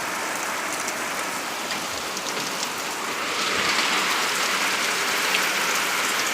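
Heavy tropical-storm rain pouring down steadily, growing louder about three seconds in.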